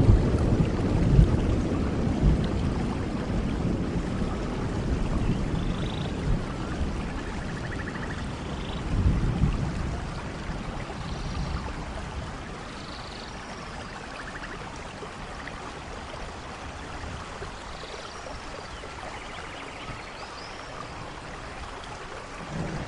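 Steady rain with low thunder rumbling, dying away over the first few seconds and rolling again about nine seconds in. The rain runs on more quietly after that, and thunder starts building again at the very end.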